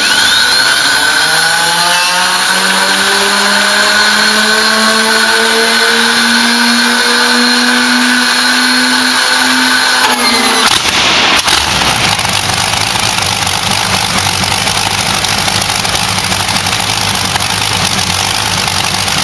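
A large engine being started: a whine rises slowly in pitch for about ten seconds, then the engine catches with a sudden burst about ten seconds in. It settles into a steady running sound with a low hum.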